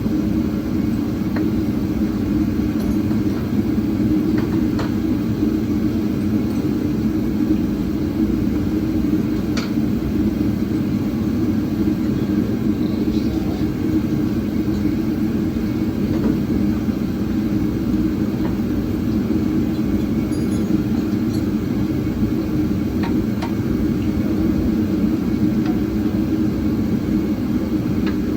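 A steady low rumble, with a few faint light clicks here and there.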